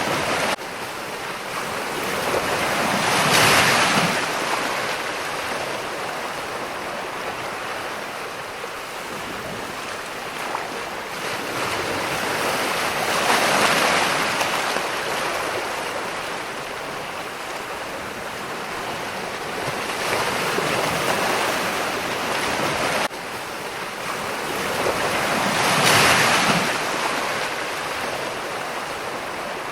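Ocean waves breaking and washing ashore, four surges of surf rising and falling about every 6 to 10 seconds over a steady rush of water. The level drops suddenly twice.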